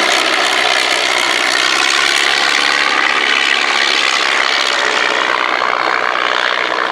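Vintage biplane's piston engine and propeller droning steadily as the aircraft flies past, the pitch shifting slightly.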